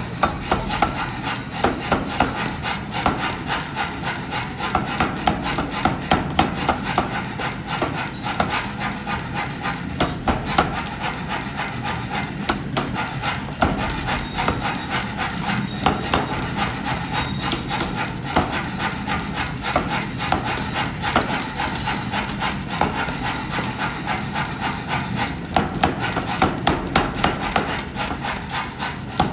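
Rapid, repeated hammer blows on hot steel during forging, with a rubbing, scraping noise between the strikes.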